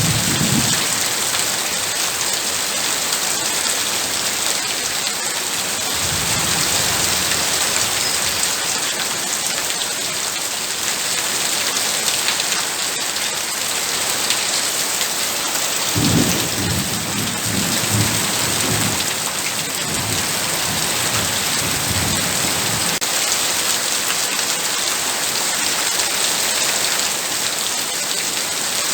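Heavy rain falling steadily, with low rolls of thunder rumbling about six seconds in and again from about sixteen to twenty-two seconds in.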